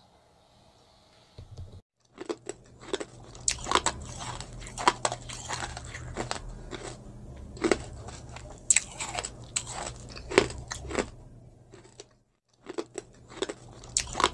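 Close-miked eating sounds: crisp food being bitten and chewed, a dense run of sharp crunches over a steady low hum. It starts about two seconds in and pauses briefly near the end.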